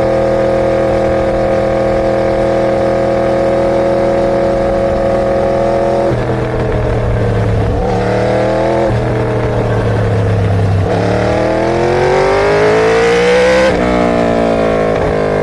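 Inline-four superbike engine being ridden: it holds a steady note for several seconds, and its pitch then steps down twice. From about two-thirds of the way in it revs up in a steady rising climb, then falls sharply on a gear change near the end.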